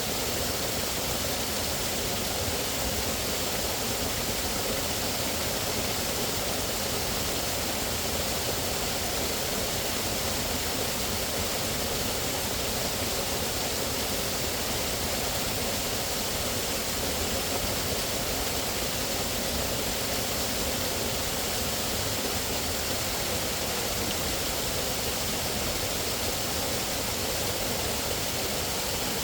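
Rushing water, a steady unbroken hiss and roar with no change in level.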